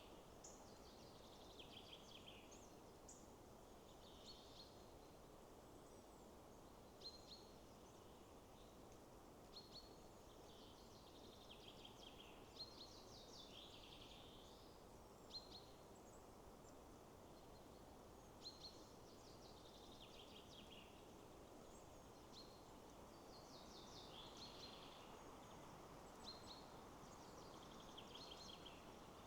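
Faint songbirds singing short, high trilled phrases every second or two, many of them falling in pitch, over a steady low rush of wind in the trees.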